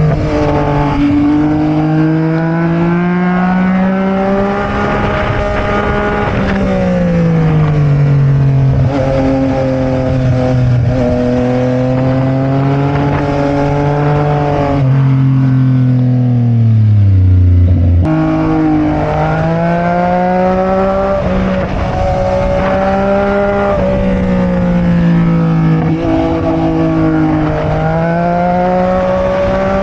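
Sport motorcycle engine heard onboard under way, its pitch rising and falling with throttle and gear changes. About halfway through the revs fall steadily for a few seconds, then jump back up abruptly, with wind rumble underneath throughout.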